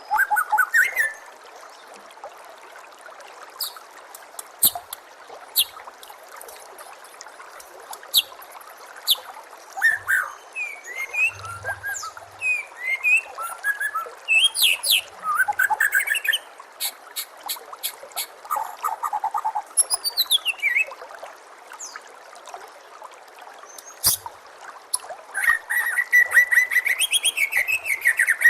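White-rumped shama singing: sharp clicks, rising and falling whistles and quick trilled phrases, with a longer trilled run near the end, over a steady trickle of running water.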